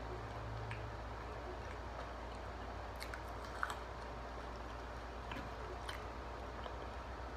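A person chewing fried chicken with mouth noises: scattered small crunches and wet clicks, the sharpest about three and a half seconds in, over a steady low hum.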